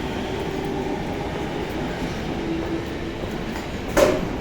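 JR 211-series electric train moving slowly alongside a station platform, a steady rumble of running gear. A single sharp clank about four seconds in.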